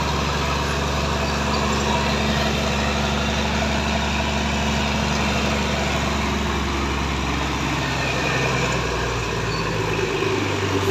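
Crane engine running hard under load while hoisting a concrete bridge girder. Its note shifts lower in the last few seconds.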